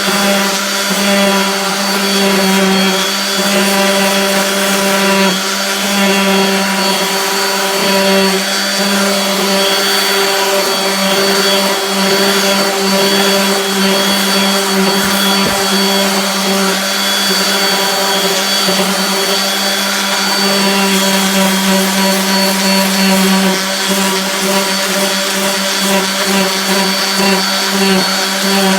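Spiral sander running steadily with 80-grit paper while shaping a wooden guitar headstock: a constant motor hum with a higher whine over the sanding noise.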